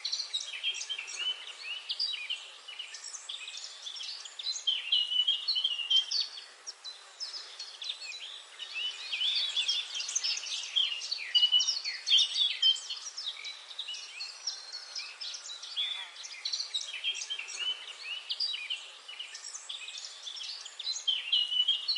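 A chorus of small songbirds chirping and singing together, many short overlapping calls and trills that keep coming without a break.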